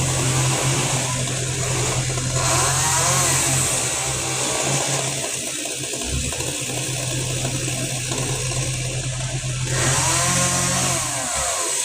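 Chainsaw running, revving up and back down twice: about three seconds in and again near the end. A steady hiss lies over it throughout.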